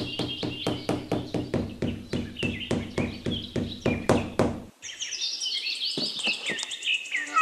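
Birds chirping in quick falling series over a steady ticking beat with low held notes, like a background music track. The beat and low notes cut off a little past halfway, leaving the chirping alone.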